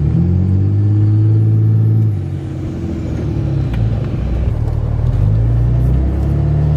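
Cummins turbo diesel engine of a Ram 2500 pulling under acceleration, with a faint turbo whistle rising over the first couple of seconds. The engine note then drops back as the throttle eases and builds again near the end.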